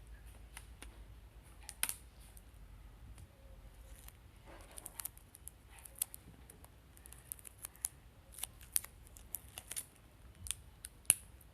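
Adhesive tape and a paper airplane being handled: scattered small clicks and crackles, with a short rasp about five seconds in.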